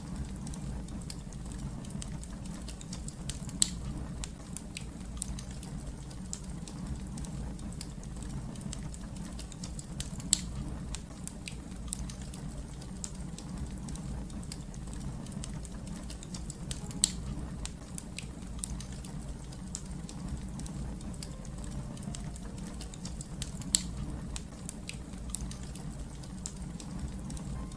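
Wood fire crackling: a steady low rumble with frequent small sharp crackles and four louder pops spaced evenly about seven seconds apart.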